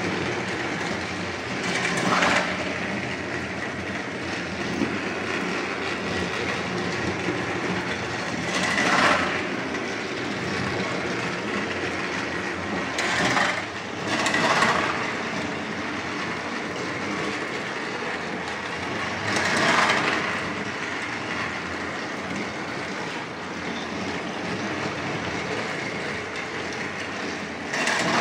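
Battery-powered Thomas & Friends TrackMaster toy trains running on plastic track: a steady motor whir and wheel rattle, swelling louder every several seconds as an engine passes close.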